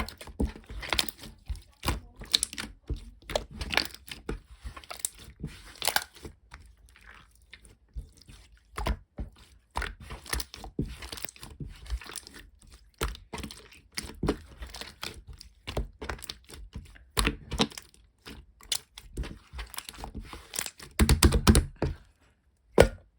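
Irregular crinkling and crunching handling noise with scattered taps and knocks. A denser run of heavier thuds comes near the end.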